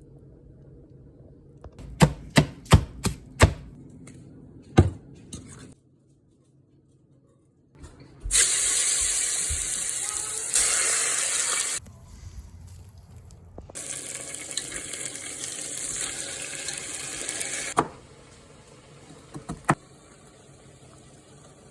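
Kitchen food-preparation sounds: a quick run of sharp knocks, a knife chopping on a cutting board, then after a short silence two long stretches of loud, steady rushing water from a tap into a sink, and a few clicks near the end.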